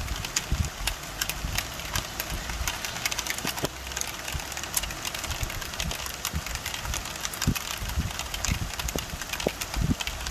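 Rain falling, with many individual drops tapping sharply close to the microphone over a steady hiss, and a low rumble underneath.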